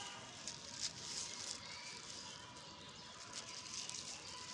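Faint rustling and crackling of old plastic and ground litter being pulled from the soil and handled, with a few soft clicks in the first second and a half.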